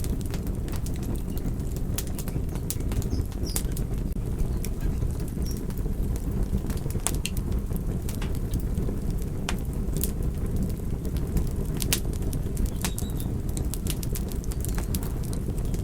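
Wood fire crackling: a steady low rumble of burning with frequent sharp pops and snaps at irregular intervals.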